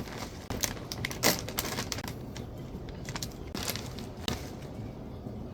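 Bag of chips being handled: irregular crinkles and sharp crackles of the packet, a few at a time.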